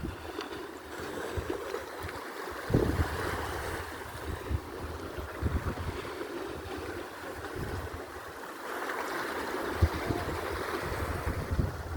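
Mediterranean sea water washing and lapping, with irregular low thumps and a few louder splashes.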